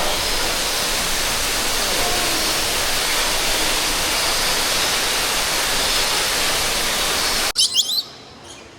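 Steady loud rushing of falling water, which cuts off suddenly near the end; a few short, high bird chirps follow.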